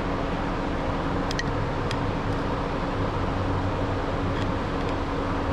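Steady machine hum with a constant low tone, and a few faint light clicks about a second and a half in.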